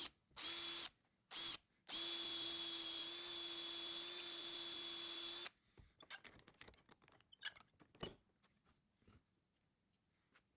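Small electric power tool motor started in two short bursts, then run steadily for about three and a half seconds with a high whine before cutting off. Light clicks and knocks of handling wood and tools follow.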